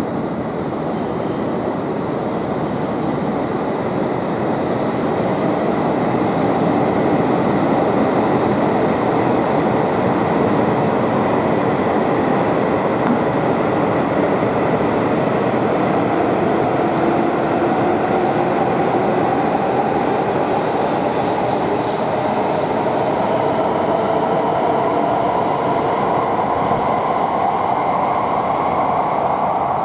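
Tohoku Shinkansen train moving along the platform, a loud steady rumble of wheels and air, with the traction motors' whine rising steadily in pitch over the second half as the train accelerates away.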